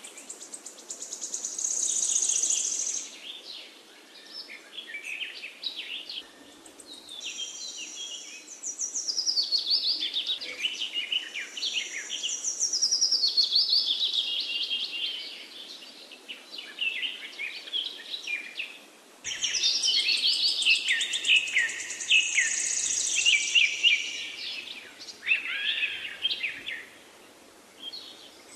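Birdsong: many rapid, overlapping high chirps, whistles and trills. It changes abruptly about two-thirds of the way in.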